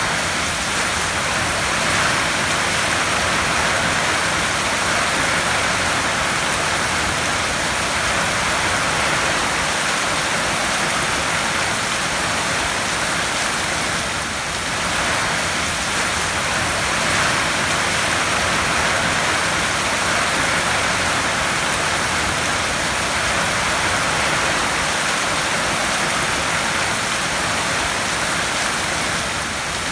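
Heavy rain drumming steadily on a tin roof: a dense, even hiss of drops on metal sheeting.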